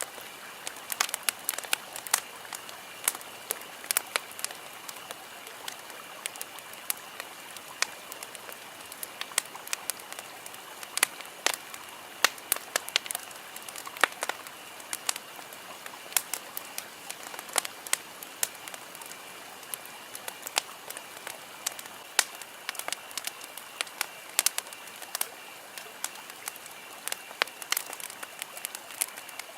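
Wood campfire crackling, with irregular sharp pops and snaps of varying loudness over a soft steady hiss.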